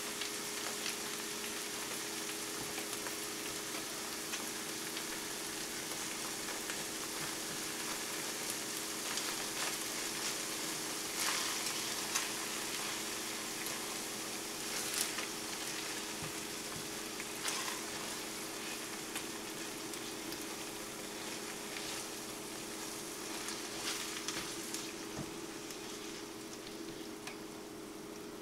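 Eggs frying with ham, peppers and onions in a skillet, a steady sizzle. A spatula now and then taps and scrapes the pan as the eggs are broken up and stirred.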